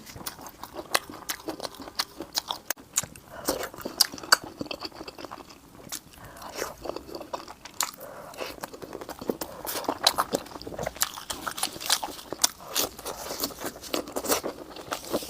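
Close-miked eating: a person biting and chewing crunchy food, with many sharp, irregular crunches and mouth clicks.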